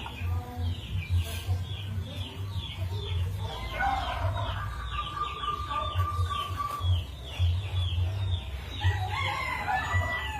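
A rooster crowing twice, the first crow long and drawn out, over a steady run of short, high, falling chirps repeating about three times a second.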